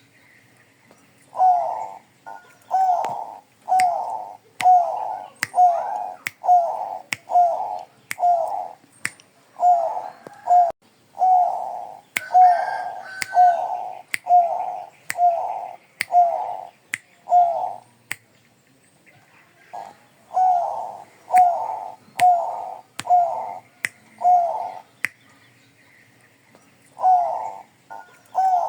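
Bangkok-strain zebra dove (perkutut) cooing: long runs of quick, evenly spaced coo notes, about one and a half a second, broken by a pause about two-thirds of the way through and another near the end. Sharp, regular clicks sound over the cooing.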